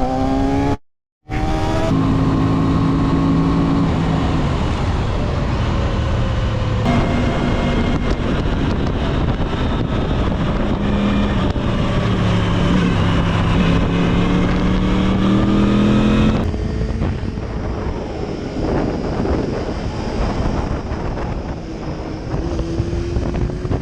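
Motorcycle engine running on the road, its pitch rising and falling with the throttle, over road and wind noise. The sound breaks off into a second of silence about a second in, and changes abruptly twice more, near 7 and 16 seconds, where one ride cuts to another; after the second change it is quieter.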